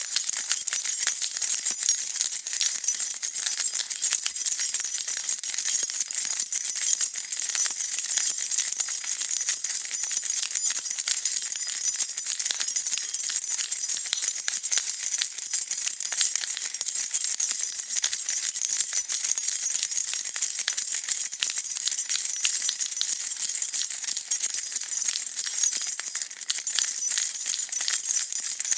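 A bunch of metal keys shaken continuously, a dense steady jingle of many small clinks.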